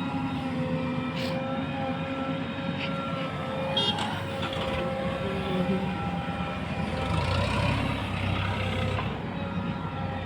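Heavy diesel engine of working earth-moving and tractor machinery running steadily; about seven seconds in it deepens and grows louder under load, easing again near the end, with a short metallic clatter near four seconds.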